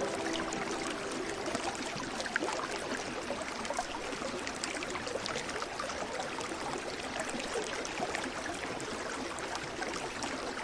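A stream running: a steady rush of water flecked with small splashes and trickles.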